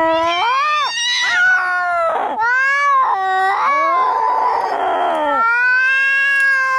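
Angry cats yowling and caterwauling in a fight: wavering, rising and falling howls, a hiss about four seconds in, then a long drawn-out yowl.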